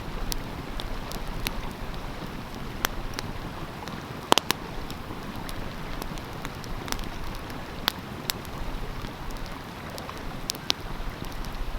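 Wood fire crackling, with scattered sharp pops (the loudest about four seconds in), over the steady rush of a flowing stream.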